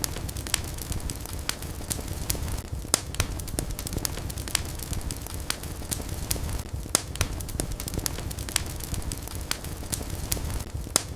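Wood fire crackling in a fireplace: irregular sharp pops and snaps over a steady low rush of burning flames.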